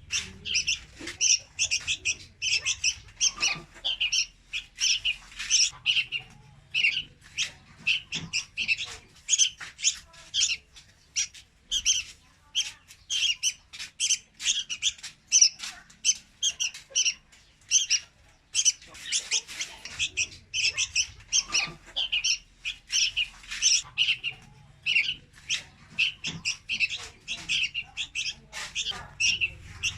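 Young red-whiskered bulbul calling: quick, high, repeated chirps, several a second, without a break.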